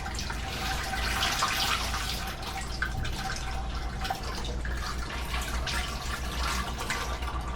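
Used deep-fryer oil running steadily out of the fryer's open drain valve, through a reusable grease filter and into a bucket.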